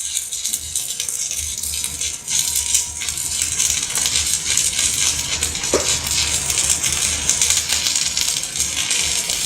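Electric arc welding with a stick electrode, the arc crackling and sizzling steadily over a low machine hum.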